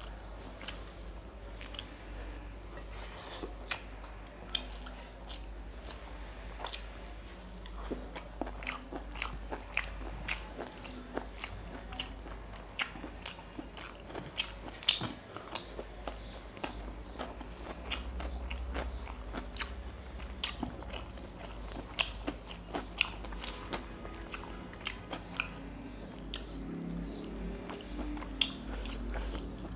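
Close-miked chewing and mouth smacking of a person eating rice with mutton liver curry by hand, with many sharp wet clicks scattered throughout.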